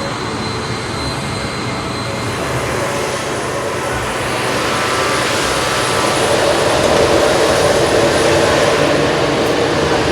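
A jet engine running with a steady rushing noise that grows gradually louder from about four seconds in.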